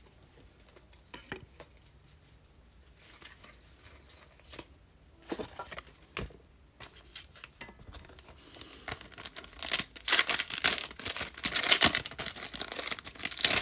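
Wrapper of a 2020 Topps Fire baseball card pack being torn open and crinkled in the hands, starting about nine seconds in after a stretch of faint card-handling clicks.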